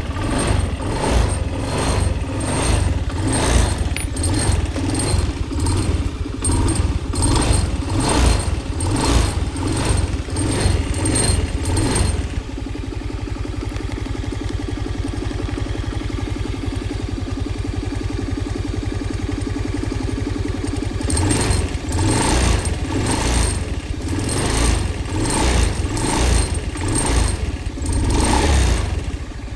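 A worn-out rear shock absorber knocking over and over, about two knocks a second, over a running engine: the sign of a broken rear shock. The knocking stops for several seconds about 12 seconds in, leaving the engine running steadily, then starts again.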